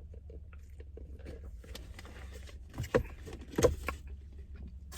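Steady low hum of a car, heard from inside the cabin, with faint ticks and rustles of handling. Two short, louder sounds come about three seconds in.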